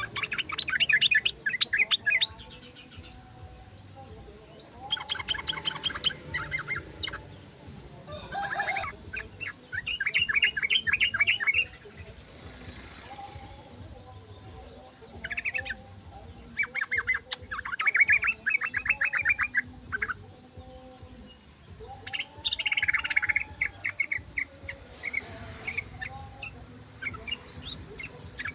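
Yellow-vented bulbul (trucukan) singing in short bouts of fast, chattering repeated notes, with pauses of a few seconds between bouts.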